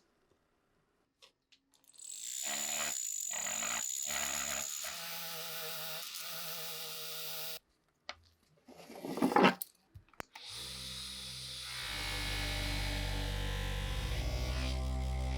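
Small electric motor tool running steadily, cutting off abruptly, then after a short loud burst of noise starting up again with a deeper steady hum.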